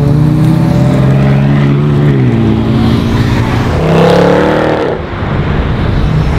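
Loud sports-car V8 engines: a McLaren 675LT's engine note drops in pitch about two seconds in, then a Mercedes-AMG C63 coupé's V8 rises in pitch as it accelerates away.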